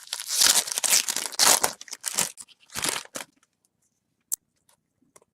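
Wrapper of a baseball card pack being torn open and crinkled: a run of loud rustling, tearing bursts over about three seconds, then a single sharp click.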